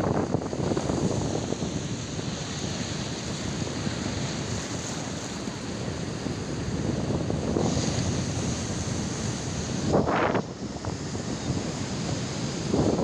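Ocean surf washing onto the shore, with wind buffeting the microphone; a brief louder surge about ten seconds in.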